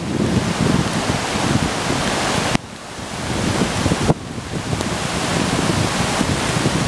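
Typhoon wind blowing hard and buffeting the microphone in a loud rushing roar, dipping abruptly twice before it builds again.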